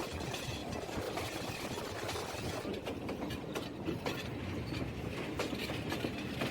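Train running along the track: a steady rumble with scattered clicks and knocks from the wheels on the rails.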